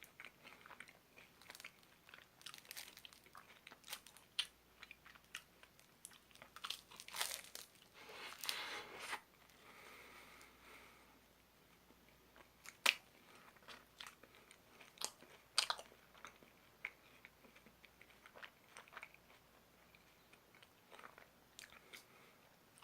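A person eating a Gugu Cone chocolate ice cream cone close to the microphone: faint, scattered bites, crunches and chewing, with a denser run of crunching about a third of the way in and a few sharp clicks later.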